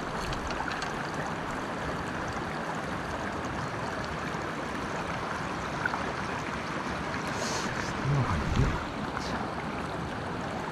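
Mountain stream rushing steadily over rocks, an even water noise. A couple of low bumps come through about eight seconds in.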